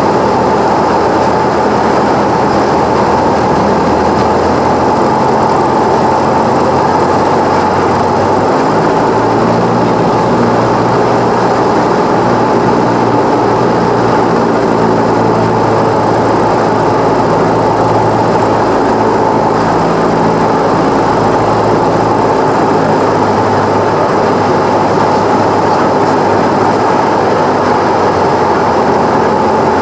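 Cessna 172's four-cylinder piston engine and propeller running steadily, heard loud from inside the cockpit; its note shifts slightly about nine seconds in.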